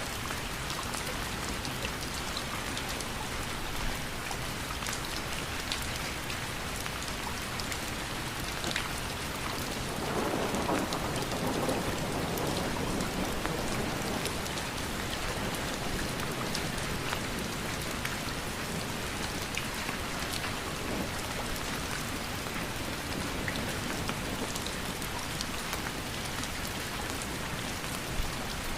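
Steady rainfall, with many individual drops ticking through the hiss. About ten seconds in, a deeper swell of sound rises and fades away over a few seconds.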